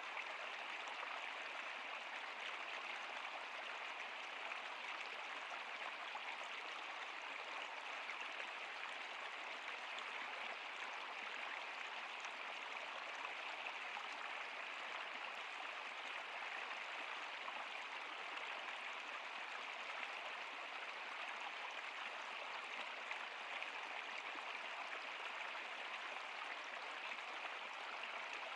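Flowing river water: a steady, even rush of running water that does not change.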